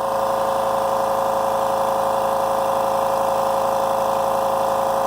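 California Air Tools 8010 Ultra Quiet 1 hp air compressor running steadily as it fills its 8-gallon tank. It is past 100 psi and still climbing toward its 120 psi cut-off.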